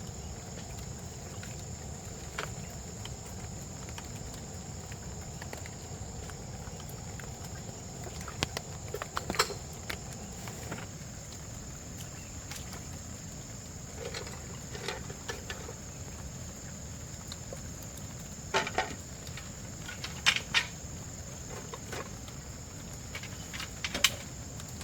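Steady high-pitched insect drone from crickets, with scattered short knocks and clatters of objects being handled, the loudest clusters about 9, 19, 20 and 24 seconds in.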